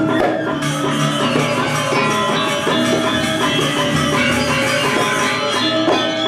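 Balinese gamelan playing, with ringing bronze metallophones and gongs over a dense, even beat of struck notes.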